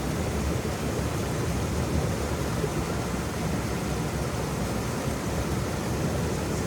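Waterfall: a steady, unbroken rush of falling water, heaviest in the low range, with no separate splashes or changes.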